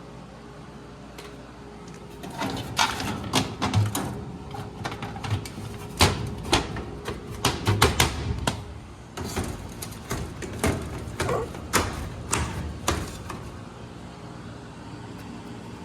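Irregular knocks, scrapes and clatter of sheet metal and cardboard as a pop-up pleated accordion filter is slid into a furnace's 20 by 25 media air cleaner housing. The loudest knocks come in the middle, quieter near the end.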